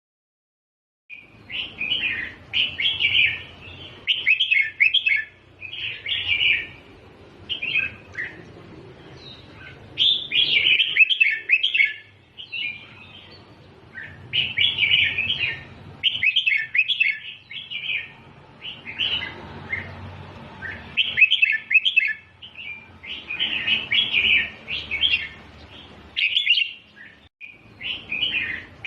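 Red-whiskered bulbul singing: short, chirpy song phrases repeated every second or two, starting about a second in.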